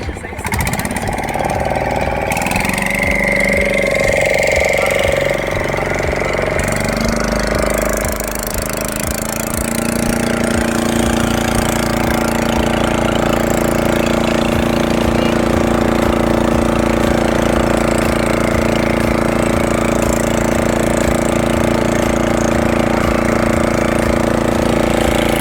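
Boat engine running hard to frighten a school of fish into an encircling net. Its pitch shifts over the first several seconds, then it runs steadily.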